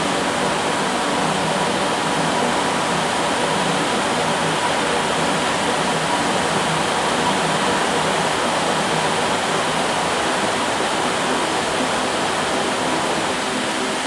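Heavy rain falling steadily on corrugated metal roofs and the ground, with runoff pouring off the roof edges.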